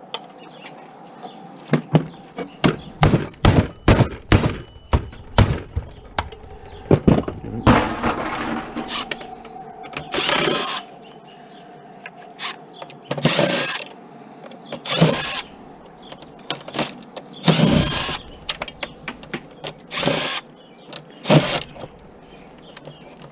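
A quick series of clicks and knocks, then a power drill running in about eight short bursts, backing out screws while a TV is taken apart.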